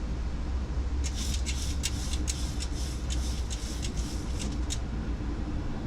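Steady low rumble of airflow and engines in a Boeing 737 cockpit on final approach. From about a second in until near the end, a quick irregular run of a dozen or so short high crackles sounds over it.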